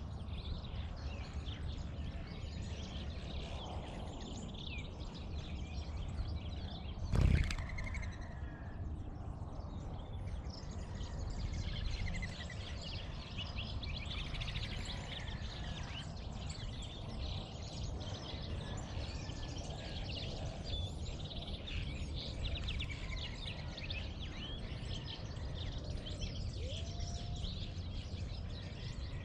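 Outdoor dawn chorus: several birds chirping and calling over a steady low rumble. A single loud thump about seven seconds in.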